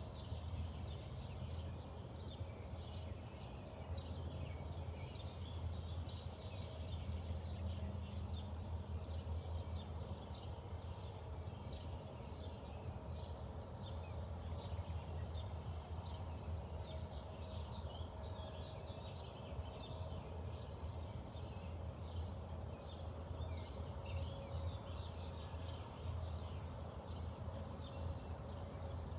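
Songbirds chirping and calling over and over in short high notes, over a steady low hum.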